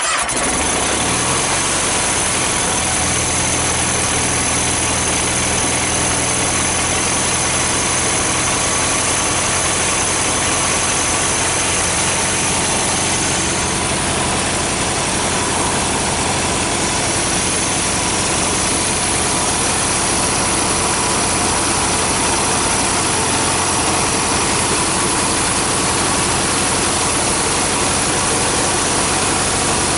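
Cub Cadet 1811 garden tractor engine catching from cranking, coming up to speed in about the first second, then running steadily.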